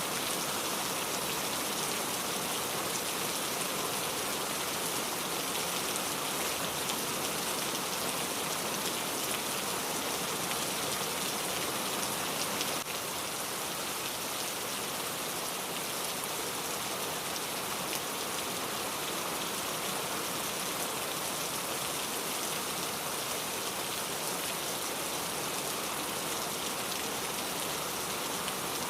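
Steady rain falling, an even hiss of many raindrops hitting a surface; the level steps down slightly about halfway through.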